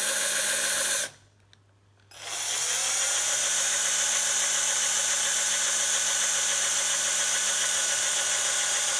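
Small electric drill running steadily while drilling holes in a vintage bicycle quick-release skewer. It stops about a second in, then spins back up about a second later with a rising whine and runs at steady speed.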